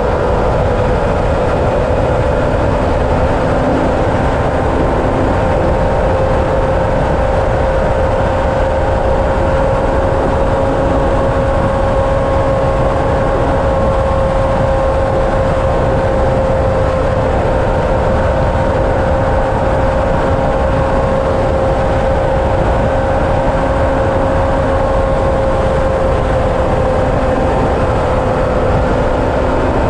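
Steady engine drone with a constant whine and a continuous rushing noise, holding an even level and pitch throughout.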